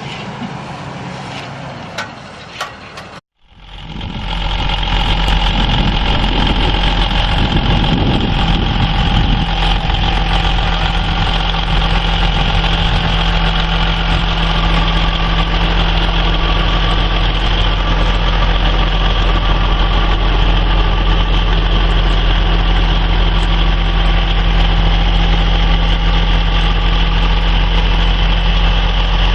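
An engine running steadily at one constant speed with an unchanging drone, starting after a sudden drop-out about three seconds in. Before the drop-out there is a different vehicle noise with two short knocks.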